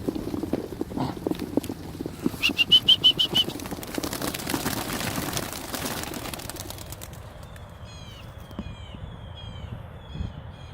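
A flock of young racing pigeons taking off at release: a loud rush of wing-flapping about four seconds in that fades over a couple of seconds. Before it comes a quick run of short high chirps, and after it faint repeated bird calls.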